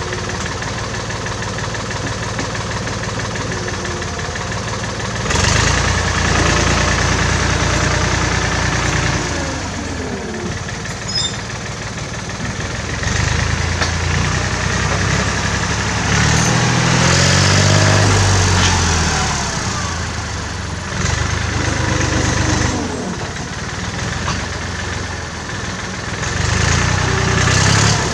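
1967 David Brown tractor engine running, its revs rising and falling several times.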